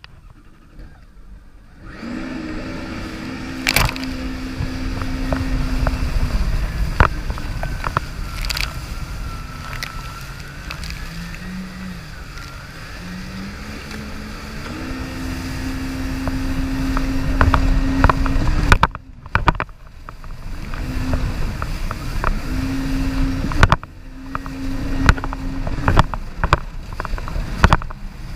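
Jet ski engine running, its pitch falling and climbing as the throttle changes, over a loud low rush with scattered sharp knocks. It comes in about two seconds in and briefly drops away twice in the second half.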